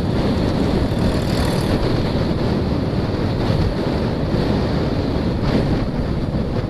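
Steady wind rushing and buffeting on an action camera's microphone while riding.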